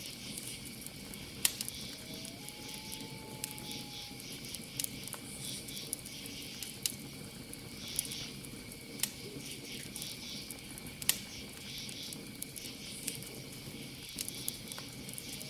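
Campfire crackling, with sharp pops every second or two, over a steady high cricket trill. About two seconds in, an owl gives one long hoot that slides up and holds for nearly two seconds.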